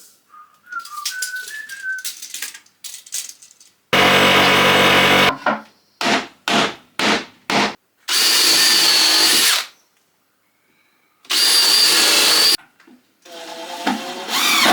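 A hand-held power tool running in short bursts: one of just over a second, a quick run of brief pulses, then two longer runs of about a second and a half.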